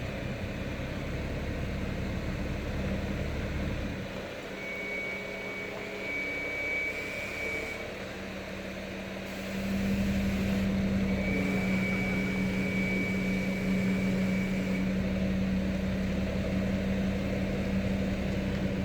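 Bombardier Flexity 2 tram running, a steady electric hum with low rumble that gets louder about halfway through, and a thin high whine that comes in twice.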